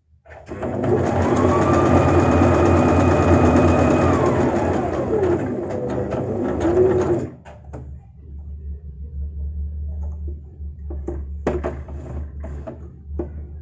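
Portable electric sewing machine stitching a buttonhole: the motor speeds up with a rising whine, runs fast for several seconds, then slows and stops about seven seconds in. A quieter low hum and a few clicks follow.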